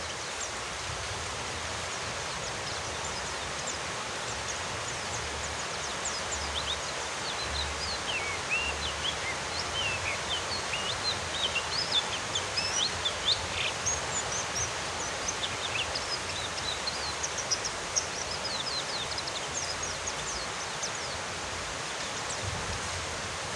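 Steady rain hiss with a small white-eye (pleci) twittering over it in quick, short high chirps, busiest through the middle and thinning out near the end.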